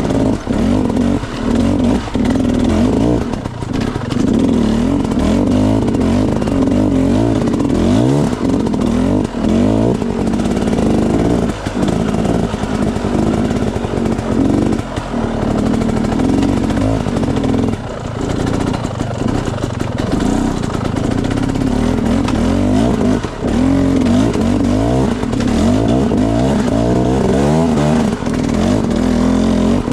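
Enduro dirt bike engine revving up and down over and over as it is ridden off-road, with short knocks and clatter from the bike over rough ground.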